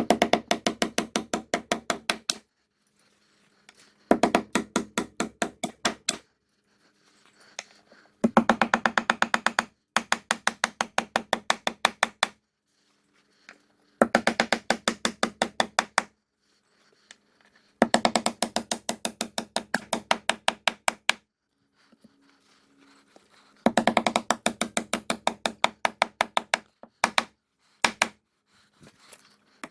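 Cordless impact driver running in repeated bursts of rapid hammering, about two to three seconds each, as it drives fasteners home. A brief motor whir comes between some of the bursts.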